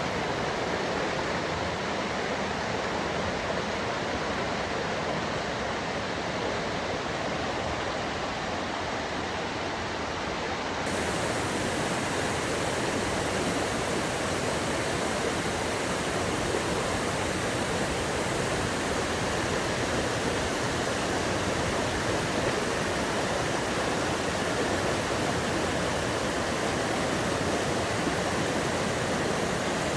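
Fast-flowing water rushing steadily above a waterfall, a dense even noise. It gets slightly louder and brighter about eleven seconds in.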